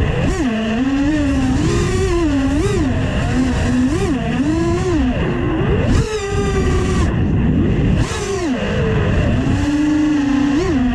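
FPV quadcopter's brushless motors and propellers whining, the pitch swooping up and down quickly with the throttle, over a rush of wind on the onboard microphone. The sound dips sharply twice, about halfway and about two-thirds of the way through, as the throttle is chopped.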